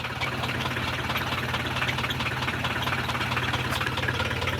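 1976 Mercedes-Benz 240D's four-cylinder diesel engine idling steadily with the typical diesel clatter: a fast, even ticking over a low hum.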